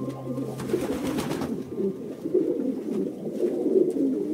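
Pigeons cooing, a continuous low-pitched murmur of overlapping coos.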